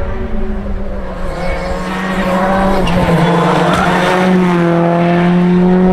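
Rally car engine held at high revs, its pitch dropping about three seconds in and then climbing slowly again, with a rush of noise in the middle.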